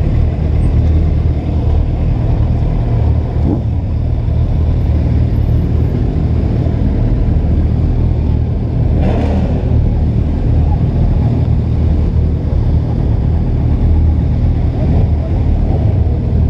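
Motorcycle engine running steadily, with a brief burst of noise about nine seconds in.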